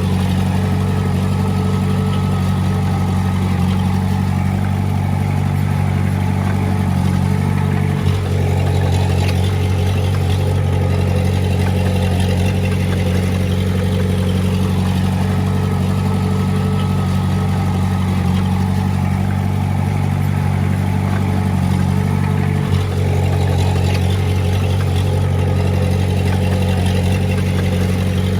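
Diesel engine of a small bulldozer or dump truck running steadily at constant speed, with two momentary breaks in the sound, about eight seconds in and about three quarters of the way through.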